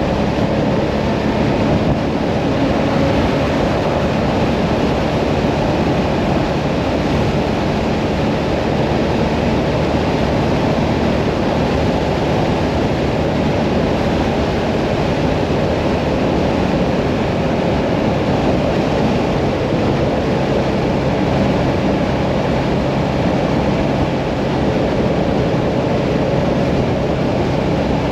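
Mirage 650 motorcycle running at a steady cruising speed on the open road, its engine drone mixed with rushing wind noise.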